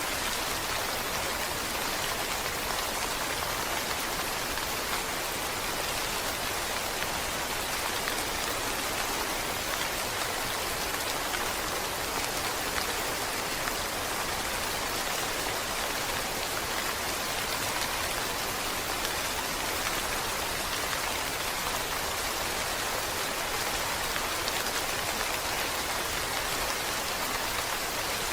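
Steady rainfall, a dense even patter of raindrops on a surface.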